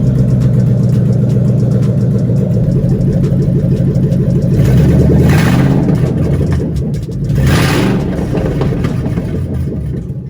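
Shelby GT500's supercharged V8 running through an exhaust with gutted catalytic converters: a loud, lumpy idle, revved twice, about four and a half and seven and a half seconds in.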